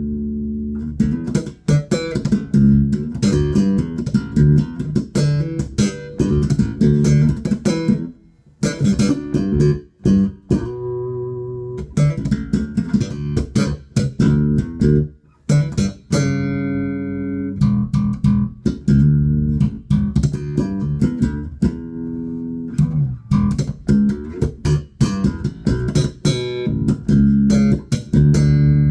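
Spector Euro 4 Classic electric bass with active EMG pickups, played through a Markbass Little Mark 58R combo amp set flat: phrases of quick, sharply attacked notes with a few short breaks, and a note left ringing near the end.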